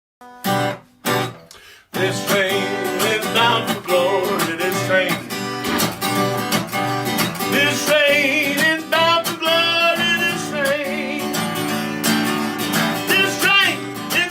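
Instrumental intro of a gospel song led by strummed acoustic guitar: two short chords at the start, then steady playing from about two seconds in, with a wavering melody line over it.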